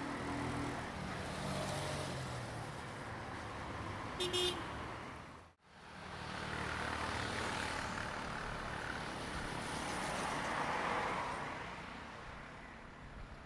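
Diesel train running on the line, with a steady engine hum and a short sharp high sound about four seconds in. The sound then cuts out abruptly, and another train's rumble builds to a peak near the end and fades as it passes.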